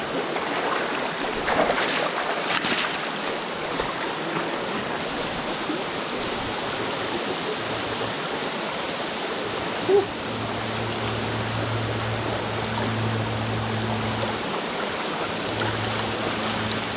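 Stream water flowing and rushing steadily. A single short knock about ten seconds in, followed by a low steady hum.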